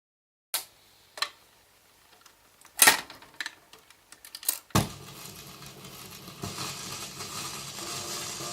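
A series of sharp clicks and knocks, the loudest about three and five seconds in, followed by a steady hiss.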